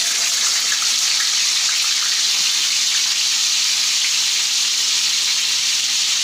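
Marinated pork chop sizzling in hot oil in a wok, a loud, steady frying hiss.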